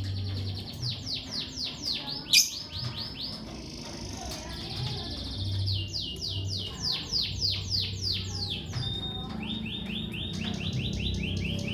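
Lovebirds chirping: runs of quick, high chirps, each sliding down in pitch, several a second, broken by short pauses.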